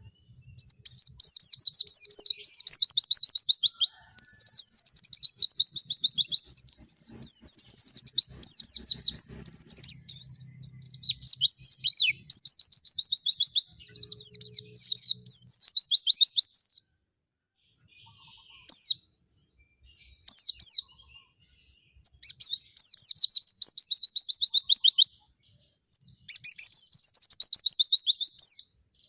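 White-eye (pleci) singing hard: long, fast, high-pitched warbling trills in phrases of several seconds. After about 17 s the song breaks into a few short single notes for some seconds, then the long trilled phrases resume.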